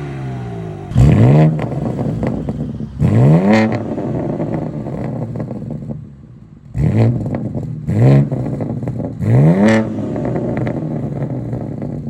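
BMW G80 M3 Competition's twin-turbo inline-six revved through an Armytrix cat-back valvetronic exhaust: five quick throttle blips, each rising sharply in pitch and dropping straight back to idle, with the engine idling between them.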